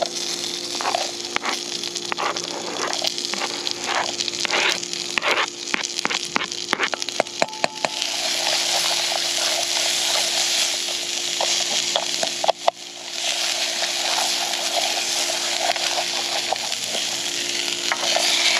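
Diced onion knocked and scraped off a plastic cutting board into a camping pot of frying soy mince, with many sharp taps of the spoon. About eight seconds in a steady sizzle takes over as the onion fries in the hot pot and is stirred with a wooden spoon.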